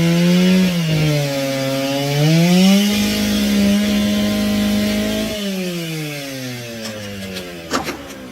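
An engine running with changing throttle: its pitch dips, climbs back up and holds steady for a few seconds, then falls away as the sound fades, with a short knock near the end.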